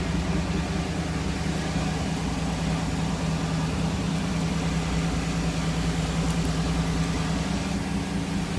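Pontiac Firebird's 305 small-block V8, said to be stroked to 325, idling steadily.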